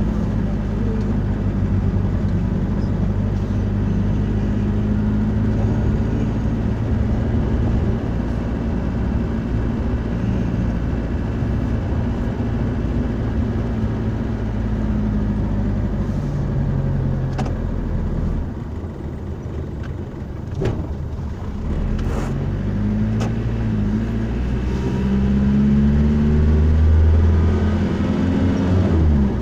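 A car being driven: steady engine and road noise, the engine note rising and falling with speed. It eases off about two-thirds of the way through and swells again near the end, with a few short clicks in between.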